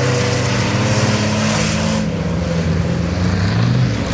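Racing trucks' engines running hard in a truck cross race, holding a steady pitch, then easing off and revving up again near the end.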